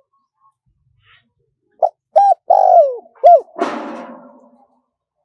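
Spotted dove cooing: after a pause, a phrase of four coos begins about two seconds in, with two short notes, a longer falling coo and another short one. A short rough, noisy burst follows and fades out over about a second.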